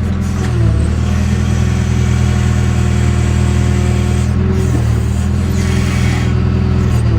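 JCB backhoe's diesel engine running steadily, working the digger.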